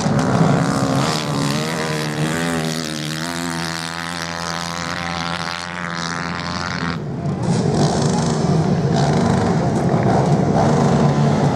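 Racing motorcycle engines running hard on the sand. The pitch of one engine rises and falls repeatedly through the middle as the rider works the throttle, then blends into a denser mix of engines near the end.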